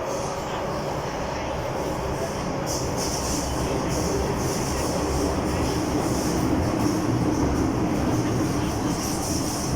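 MTR M-Train metro electric multiple unit running between stations, heard on board: steady rumble of wheels on rail and running gear, with a motor hum that grows stronger in the second half.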